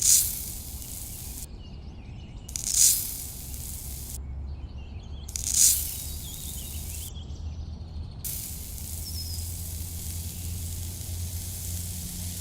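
Hissing spray in three short bursts about three seconds apart, then a steady hiss from about eight seconds in, over a constant low hum.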